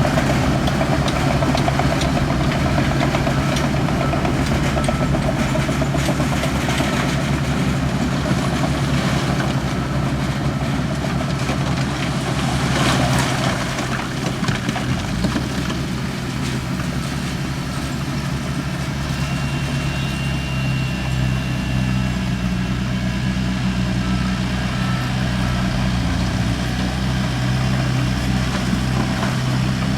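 Heavy diesel engine of earthmoving machinery running steadily with a low, even drone, with a brief rush of noise about 13 seconds in.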